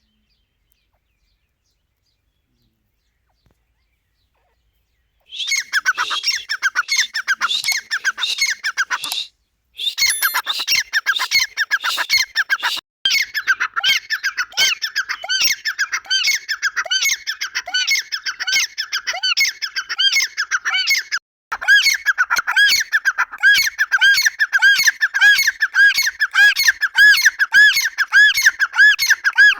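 Grey francolin (Dakhni teetar) calling: a loud, fast run of repeated shrill notes that starts after about five seconds of silence and goes on with a few short breaks.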